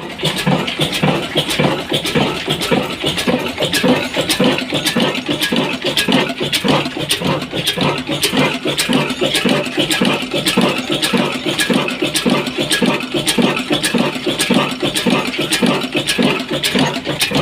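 Fazal-built Ruston-type 22 hp slow-speed diesel engine running steadily at about 300 rpm, with a regular beat of sharp knocks.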